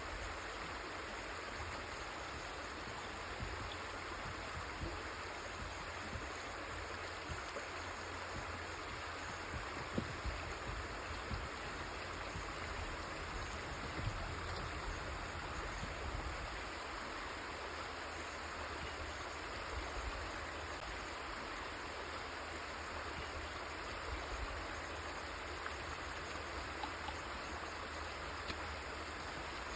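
River water flowing steadily over rocks, an even rushing sound with a low rumble beneath and a few brief louder splashes.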